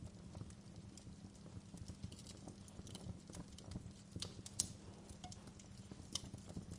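Wood fire crackling: irregular small snaps and pops, with a few sharper pops in the second half, over a low steady rumble.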